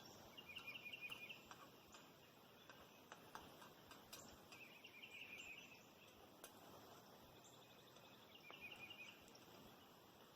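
Quiet outdoor ambience with a rapid, high chirping trill from a small bird or insect, heard three times a few seconds apart.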